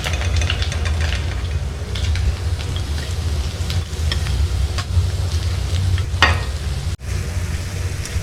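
Small pallathi fish sizzling as they fry in hot oil in a kadai, with a spoon clicking and scraping against the pan as they are turned and lifted out, the loudest scrape about six seconds in. A steady low rumble runs underneath.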